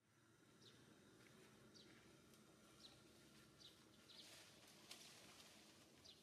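Faint outdoor ambience with a small bird's short, high, falling chirps repeating about once a second.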